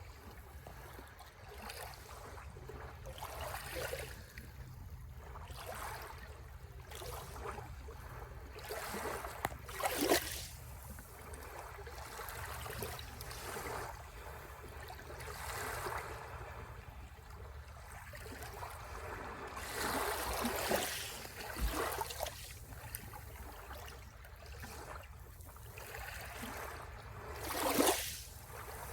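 Sea waves breaking on the shore, the surf noise swelling and ebbing, with the loudest breakers about ten seconds in, around twenty seconds, and near the end.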